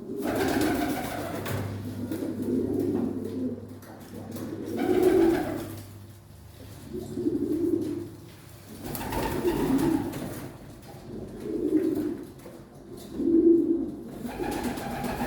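Domestic pigeons cooing: low, throaty coos repeating every second or two.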